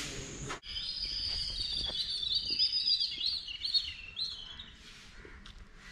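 Small birds chirping and twittering, a dense run of quick high chirps that starts suddenly about half a second in and thins out near the end.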